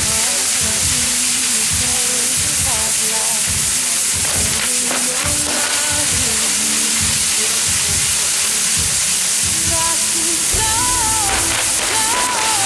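Ground fireworks burning with a loud, steady hissing spray and scattered crackles; wavering whistling tones come in near the end.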